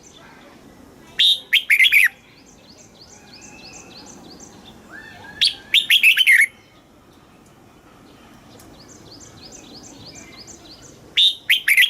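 Red-whiskered bulbul singing: three loud, short phrases of a few quick notes, about every five seconds. Fainter, fast runs of repeated chirps fill the gaps between the phrases.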